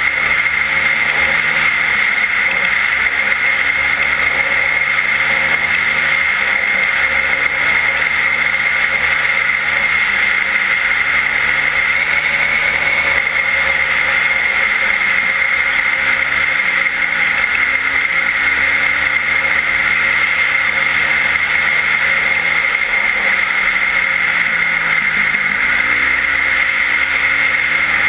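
Yamaha WR450F's single-cylinder four-stroke engine with an Akrapovič exhaust running under way. Its pitch drops and rises several times as the throttle and gears change, over a steady hiss.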